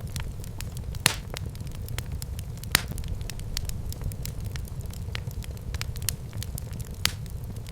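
Wood fire burning in a fireplace: a steady low rumble of the flames with frequent crackles and pops, the sharpest about a second in and again near three seconds.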